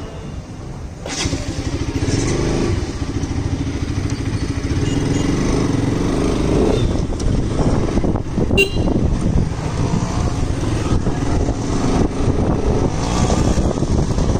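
A Bajaj Pulsar RS200's single-cylinder engine running, getting abruptly louder about a second in, with a sharp click at about eight and a half seconds.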